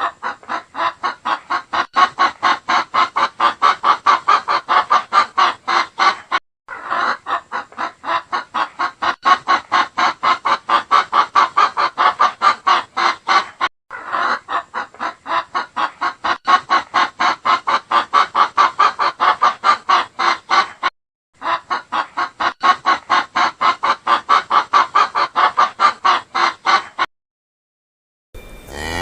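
Chicken clucking in a rapid, even series of about six or seven clucks a second, in four runs of about six seconds separated by brief silences. A cow's moo begins just before the end.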